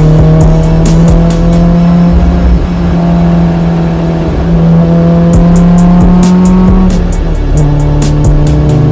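Honda S2000's 2350cc Toda-built F20C inline-four running hard and steadily under load. The pitch climbs slowly and changes in steps a few times.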